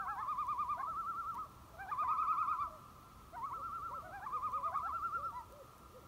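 Birds calling: rapid, wavering trills, several overlapping, in three bouts with short gaps.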